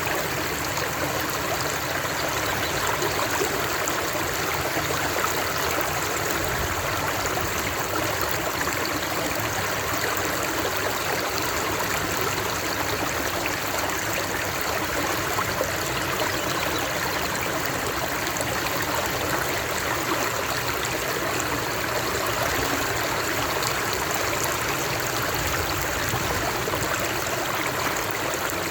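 Water flowing steadily over rocks in a stream, a continuous even rush with no let-up.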